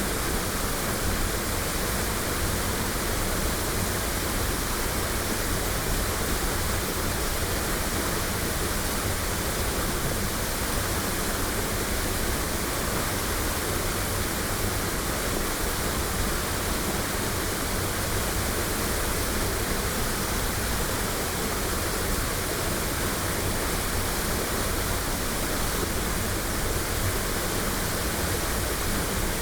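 Waterfall: water falling and splashing in a steady, even rush with no changes.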